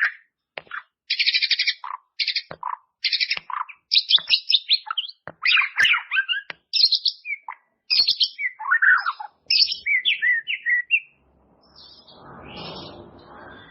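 White-rumped shama (murai batu) singing a fast, varied song: buzzy rattling trills, sharp chips and slurred whistles in quick succession. Near the end the song gives way to a fainter, lower, noisy sound.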